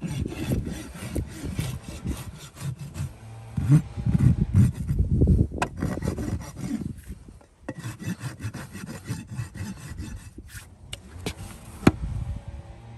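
Farrier's rasp filing a horse's hoof wall in repeated rough scraping strokes, pausing briefly a little past halfway, with a sharp click near the end.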